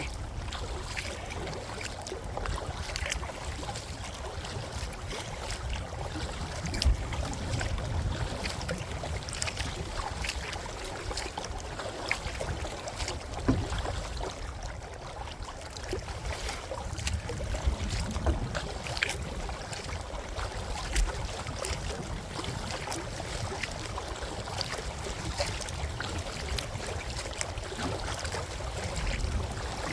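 Wind buffeting the microphone in a steady low rumble, over water lapping and occasional paddle splashes and knocks as a kayak is paddled through choppy, windblown water.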